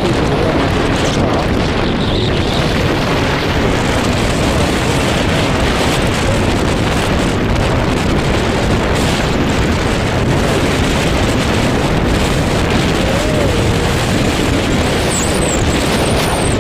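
Loud, steady rush of wind buffeting a helmet or body-mounted microphone on a moving motorcycle, with the bike's engine and road noise buried in it.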